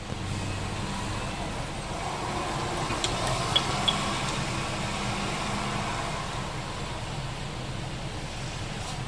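Steady street traffic noise with a motor vehicle's engine running, and two short high ticks a third of a second apart about three and a half seconds in.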